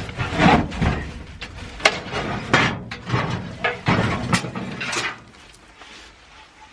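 Loose truck parts being handled and set down: a string of knocks, clunks and rustling scrapes that stops about five seconds in.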